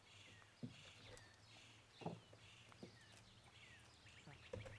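Faint chirping of small birds, many short calls one after another, with a few soft thuds.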